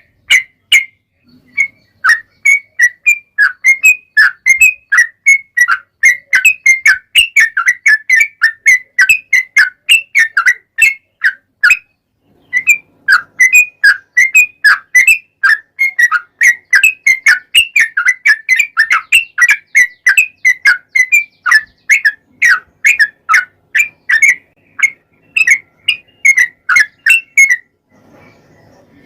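Yellow-vented bulbul (trucuk) singing a long, fast run of short whistled chirping notes, about four a second. The run breaks briefly about twelve seconds in and ends shortly before the end.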